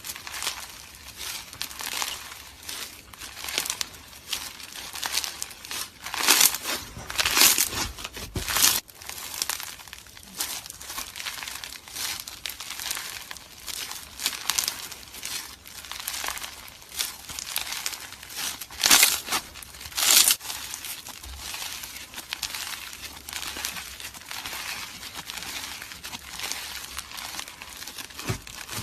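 Slime being squeezed and kneaded by hand, giving a continuous crackling and popping, with a few louder pops about six to nine seconds in and again near twenty seconds.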